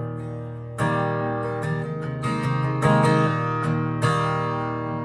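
Acoustic guitar strummed, a chord struck about every second and left to ring between strokes.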